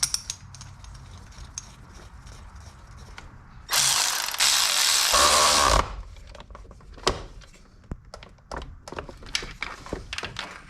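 Hand tools at work on an engine's thermostat housing: light clicks and taps, a loud rushing noise lasting about two seconds about four seconds in, then a run of ratchet clicks in the last few seconds.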